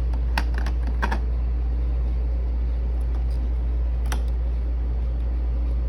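A steady low hum, with a few light taps or clicks, one about half a second in, one about a second in and one about four seconds in.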